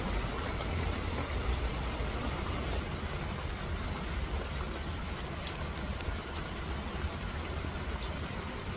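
Steady rain falling, an even hiss with a deep low rumble underneath and a few faint drip ticks.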